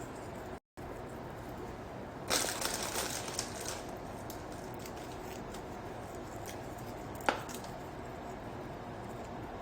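Sea salt flakes crumbled between fingers over brownie batter: a crackly rustle lasting about a second and a half, over a steady background hiss. A single sharp click comes later.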